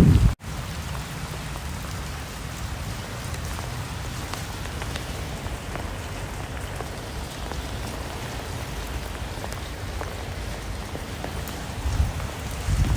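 Steady rain with individual drops ticking through it, cut off for an instant about half a second in. A louder low rumble comes in near the end.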